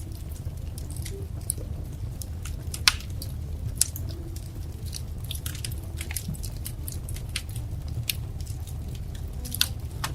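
Wood fire crackling: irregular sharp pops and snaps over a steady low rumble, with a louder pop about three seconds in.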